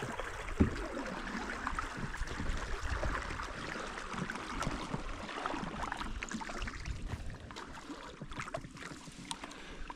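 Water lapping and splashing around a canoe as it is paddled, with a single knock about half a second in.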